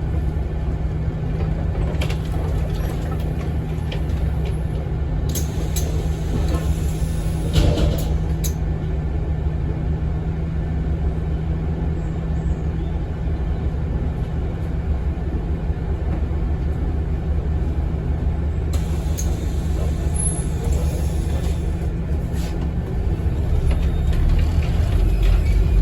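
Inside a Scania N270UD double-decker bus: the five-cylinder diesel engine runs with a steady low drone, and the cabin rattles and knocks in two patches, with one sharper knock about eight seconds in. The engine noise grows louder over the last few seconds.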